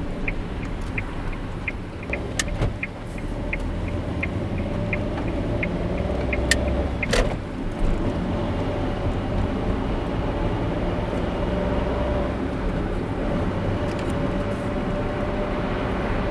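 Car driving, heard from inside: steady engine and road-noise rumble. Turn-signal ticking runs at about three ticks a second and stops about seven seconds in, with a few sharper clicks among the ticks.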